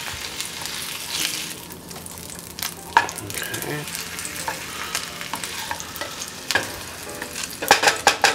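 An egg-soaked sandwich frying in clarified butter in a nonstick pan, sizzling steadily. Two spatulas click and scrape against the pan as the sandwich is turned over, with a quick run of sharp clicks near the end.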